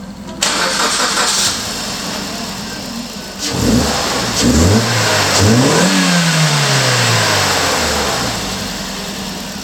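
Suzuki Swift Sport (ZC32S) M16A 1.6-litre four-cylinder engine idling, then revved twice, the second rev going higher and slowly falling back to idle. A loud rushing noise sounds briefly near the start.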